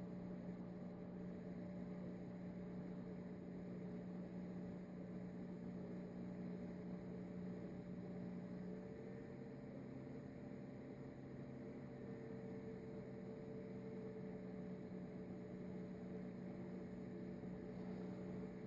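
Faint, steady low electrical hum with no other distinct sound.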